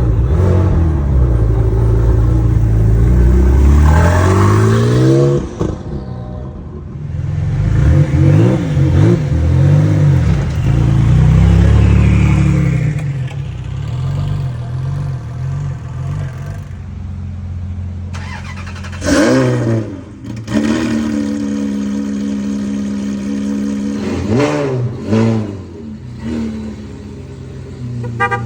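Performance car engine accelerating hard, its pitch climbing through the revs twice in the first twelve seconds. It then runs more steadily, with two short blips of the throttle, rising and falling, later on.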